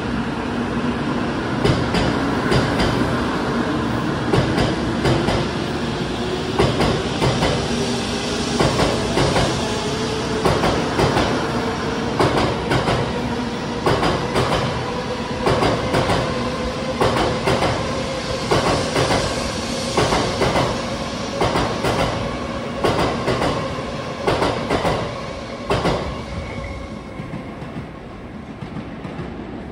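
Shinkansen N700A high-speed train pulling away from a platform as it accelerates. Its electric traction motors whine, rising steadily in pitch, over a rhythmic clatter of the bogies crossing rail joints as the cars go by. The sound fades near the end as the last car passes.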